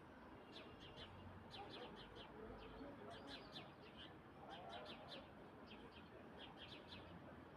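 Small birds chirping faintly: many short, high chirps, often in quick clusters, over a soft background hiss.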